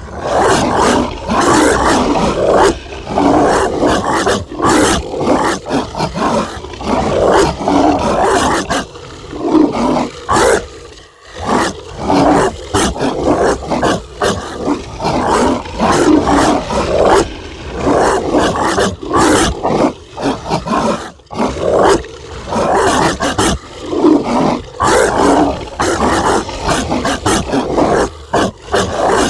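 Zombie dog sound effect: rough, rasping barks and growls coming one after another with only short gaps, and a brief lull about eleven seconds in.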